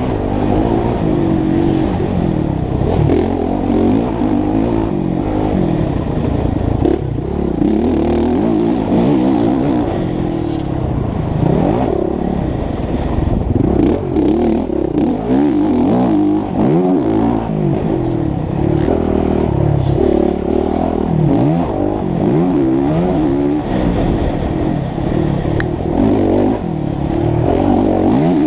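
Honda CRF450 single-cylinder four-stroke motocross engine revving hard, its pitch rising and falling again and again as the throttle opens and closes.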